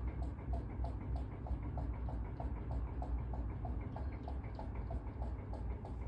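A regular mechanical ticking, about four ticks a second, over a steady low hum.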